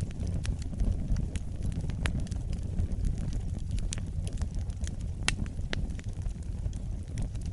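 Wood fire in a fireplace burning with a steady low rumble and irregular sharp crackles and pops, one louder pop about five seconds in.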